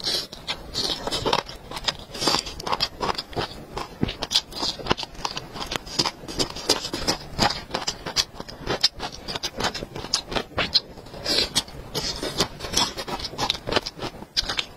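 Close-miked eating sounds of lemon chicken feet being chewed: a dense, irregular run of wet smacks and crunchy clicks, many to the second.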